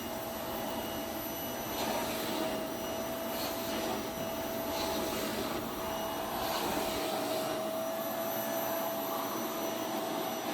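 Bissell PowerForce 2156 bagless canister vacuum running steadily at full suction, a constant whine over the rush of air, with its floor tool working on a mat.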